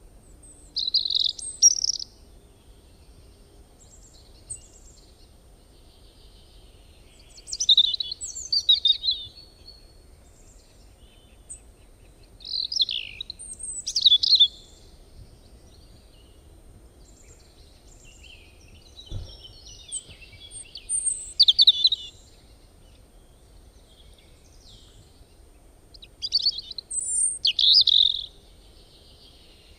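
A songbird singing, five bursts of quick high chirps and whistled notes, each about two seconds long, with pauses of several seconds between them.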